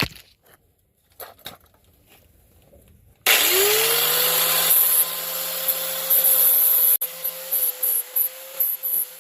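Angle grinder switched on about three seconds in, spinning up quickly to a steady whine, then grinding on steel with the sound surging unevenly near the end: smoothing down weld bead on the worn clutch linkage.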